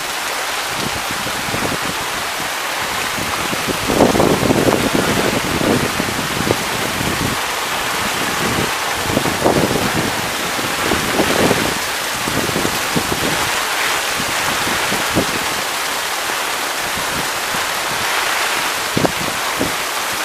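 Heavy rain pouring down onto a flooded street, with floodwater running, as a dense, steady hiss. Low rumbling gusts of wind hit the microphone every few seconds.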